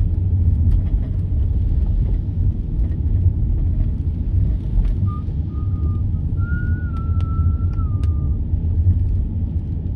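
Steady low road and engine rumble of a moving car, heard inside the cabin. A faint thin whistle-like tone comes in a few short pieces from about five to eight seconds in.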